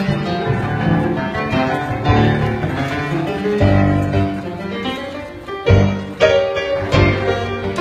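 Live cello and keyboard duet: the cello plays bowed melody lines over struck keyboard chords, with strong chord hits near the end.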